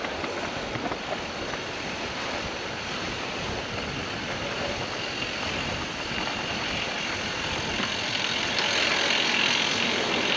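Mountain bike ride over rough trail: a steady rush of tyre and wind noise with small rattles and knocks, growing louder near the end.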